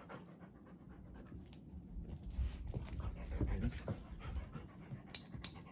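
Siberian husky panting in excitement, with a brief low vocal glide partway through and two sharp clicks near the end.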